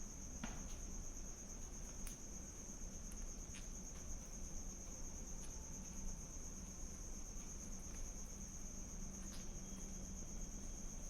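Crickets trilling steadily in one unbroken high-pitched drone, with a few faint clicks.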